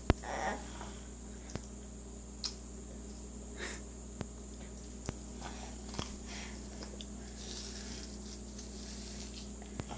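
An apple being bitten and chewed: scattered short crunches and clicks over a steady electrical hum with a faint high whine.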